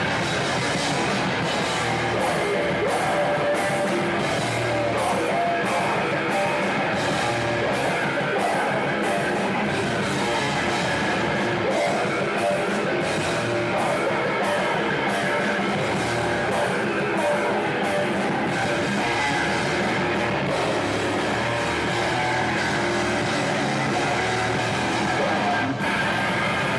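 A hardcore band playing live: heavily distorted electric guitars and drums, with cymbal hits landing about twice a second through most of the passage. There is a brief break in the wall of sound near the end.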